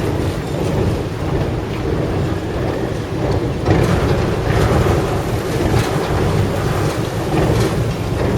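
Engine of a boat crossing the Chao Phraya River, running steadily with a low rumble, under a rushing noise that swells briefly several times.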